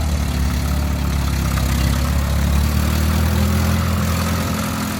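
Vehicle engine running at low revs with a deep, steady hum, its pitch rising a little in the middle and easing off again.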